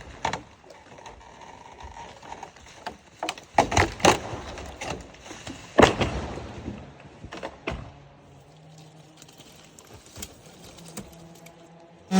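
Wood cracking and knocking at irregular intervals, like branches being snapped and handled, with several louder sharp cracks. From about eight seconds in a faint steady hum of an idling small engine is heard underneath.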